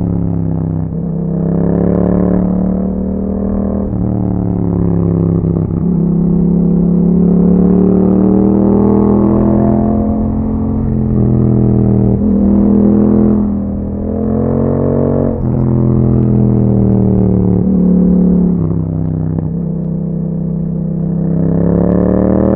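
Exhaust of a 2021 Yamaha MT-07's parallel-twin engine through an Akrapovic exhaust with dB killer, heard while riding. The pitch climbs steadily, then drops sharply again, several times over.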